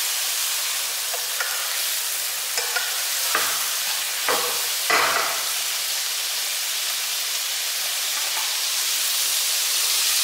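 Squid and chicken sizzling as they stir-fry in a nonstick wok over a gas flame, a plastic spatula turning and scraping them. There is a steady hiss, with a few sharp knocks of the spatula against the pan in the first half.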